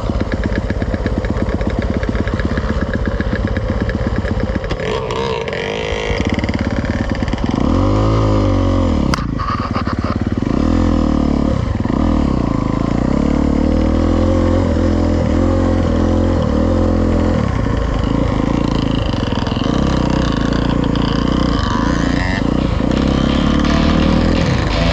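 Dirt bike engine running hard on a trail ride, its pitch rising and falling again and again with throttle and gear changes.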